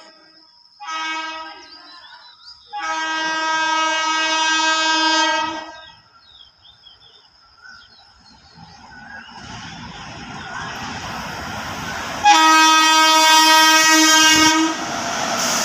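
Express train's locomotive horn sounding as the train approaches and runs through a station without stopping: a short blast about a second in, a long blast from about three to six seconds, then a loud blast a little after twelve seconds. The train's rumble grows steadily from about eight seconds and keeps going to the end as it passes.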